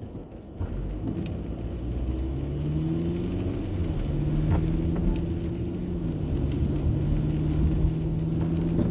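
Car engine and road rumble. The engine note rises as the car picks up speed over the first few seconds, then holds a steady drone.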